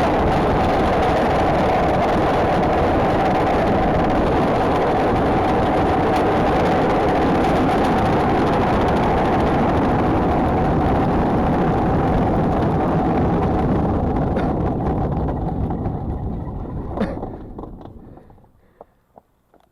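Steady rushing wind and airflow noise on a human-powered aircraft pilot's head-level camera during flight. The noise dies away over the last few seconds as the aircraft slows, with one sharp knock near the end.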